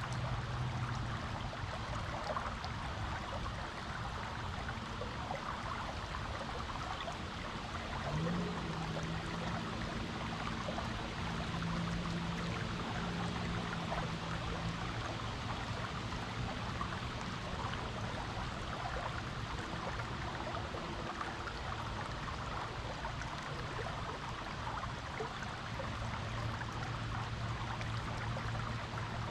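Creek water flowing over rocks, a steady, even rushing and trickling. A faint low hum comes and goes beneath it, rising in pitch about eight seconds in and holding for several seconds.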